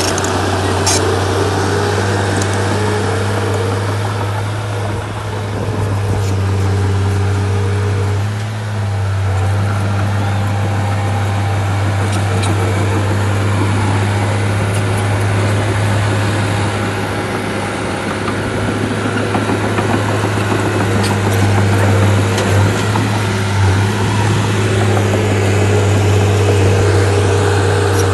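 Heavy diesel engine of a bulldozer running steadily with a deep hum, briefly easing off about eight seconds in and pulling a little harder in the second half.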